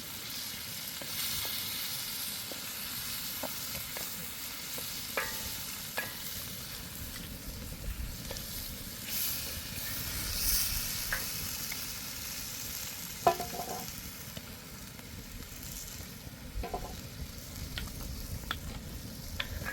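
Food sizzling and frying in a pan, a steady hiss with scattered clicks and knocks of a utensil stirring; the loudest knock comes about two-thirds of the way through.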